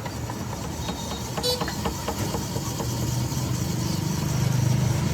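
A motor running steadily with a low hum, getting a little louder toward the end, with a few light clicks over it.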